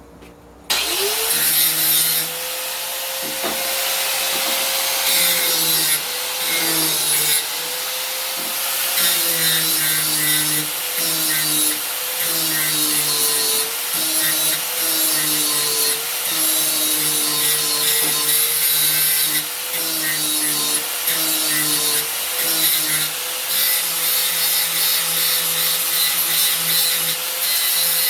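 An electric power tool spins up about a second in and then grinds or sands steel: the back spine of an old meat cleaver being touched up. The motor's pitch sags again and again as the blade is pressed into it, with a hiss of abrasion throughout.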